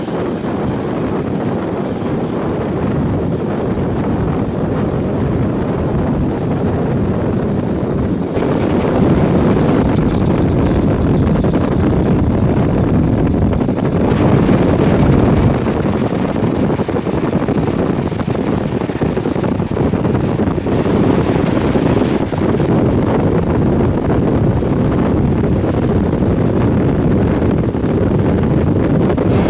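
Night train running at speed: a steady, loud rushing rumble of the train in motion, mixed with wind on the microphone. It gets a little louder about eight seconds in.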